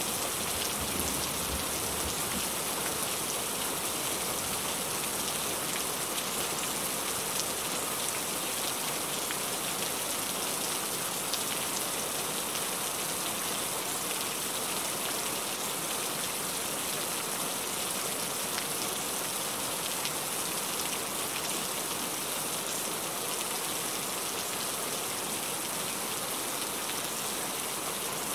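Heavy rain falling steadily: a dense, even hiss of rain, flecked with the fine ticks of single drops.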